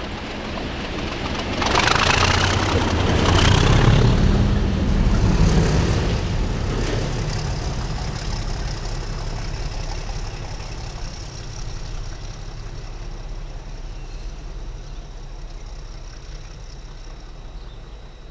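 Train passing, a rush of wheel and engine noise that swells about two seconds in, peaks a couple of seconds later, then fades steadily as it moves away, with a low engine drone underneath.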